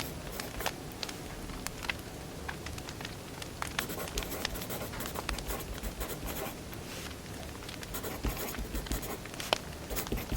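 Firewood burning, crackling with irregular sharp pops and snaps over a low steady rush.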